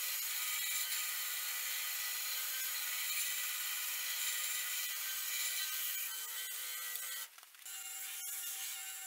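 Steady abrasive rubbing as the knife is shaped and smoothed, a continuous rasping that cuts out briefly about seven seconds in and then starts again.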